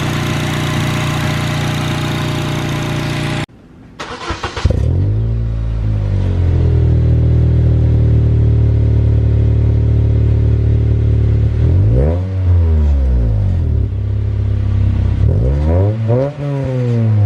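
2005 Acura RSX's 2.0-litre inline-four with an aftermarket exhaust, running at idle. About three seconds in the sound cuts off abruptly and the engine picks up again at a steady idle. In the second half it is revved briefly a few times, the pitch rising and falling with each blip.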